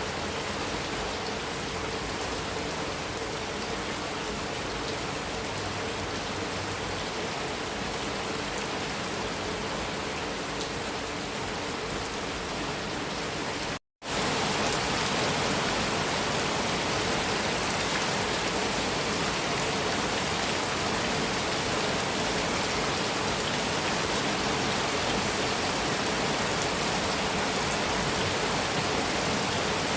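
Heavy rain pouring steadily on a metal roof. It cuts out for a split second about halfway through, then comes back slightly louder.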